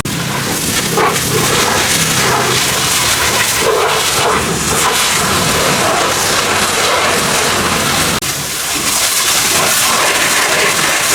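Steady hissing spray of a high-pressure cleaning jet, cut off for an instant about eight seconds in and then resuming.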